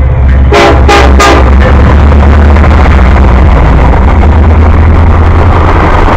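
Freight train passing close: a heavy, steady diesel locomotive rumble, three short horn blasts about a second in, then a loud rushing noise of the train rolling by.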